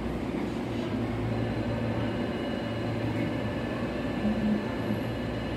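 Steady low electric-train hum at a station, with a faint high whine coming in about a second and a half in.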